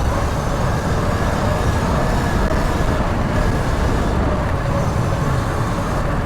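2019 Sur-Ron electric dirt bike ridden at speed: steady wind buffeting on the mic over the electric motor's faint whine, which wavers a little in pitch.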